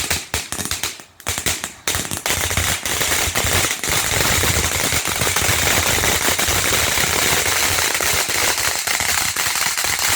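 Fireworks going off in a rapid firecracker-style barrage: a fast run of sharp cracks, merging about two seconds in into a dense, nonstop crackle.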